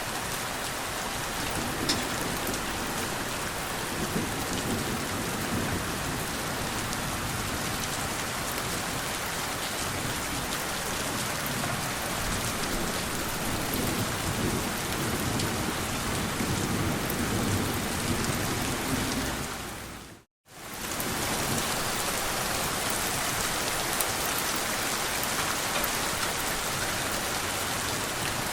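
Steady rain falling, with low rolling thunder swelling in and out beneath it. About two-thirds of the way through, the sound briefly fades out to silence and comes back in.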